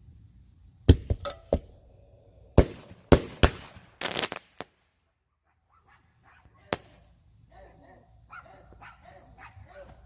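Firecrackers going off inside a paint can: a quick, irregular string of sharp bangs with a burst of crackling about four seconds in and one last bang near seven seconds. Near the end a dog barks.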